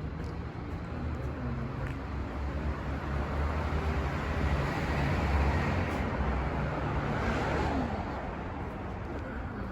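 City street traffic with a low engine hum. A motor vehicle passes close by, its rush swelling to a peak about halfway through and then fading.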